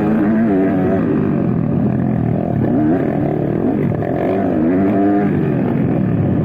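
Several motocross bike engines revving up and down as they race. The pitch rises and falls over and over with the throttle, one engine overlapping another.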